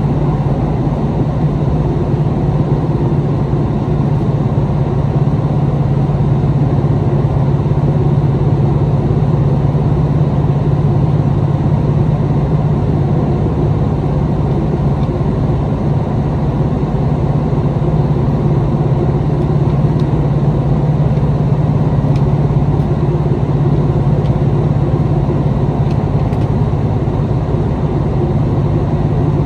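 Interior running sound of a KiHa 261 series diesel limited express railcar on the move: a steady low drone of the diesel power units and running gear with wheel-on-rail noise, unchanging throughout.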